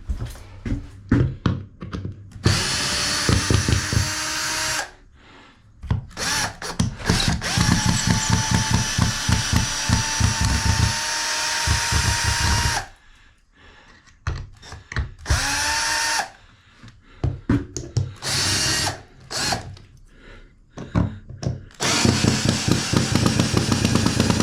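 Handheld power drill run in about five bursts of a few seconds each, its motor holding a steady pitch with a fast pulsing underneath, with short gaps of scattered knocks and clatter between runs.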